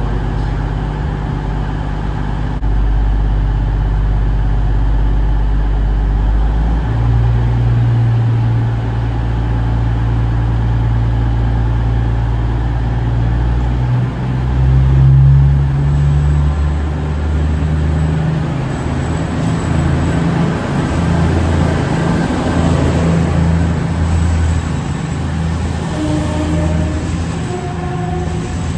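Diesel train's engine running loud and low, its note shifting in pitch several times as it works.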